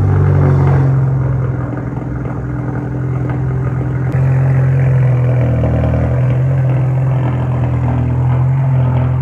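Big-turbo Audi A3's turbocharged four-cylinder engine idling right after a cold start, a steady low exhaust drone that gets louder about four seconds in.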